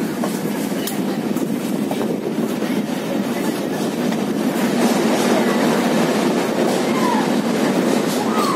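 Passenger train running along the track, heard from inside a carriage: a steady rumble of wheels on rail with occasional clickety-clack, getting a little louder about five seconds in.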